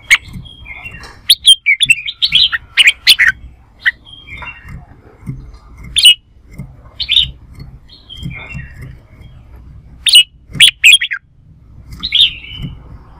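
Red-whiskered bulbul singing its competitive song: short, loud phrases of quick clear notes in several bursts with pauses between them.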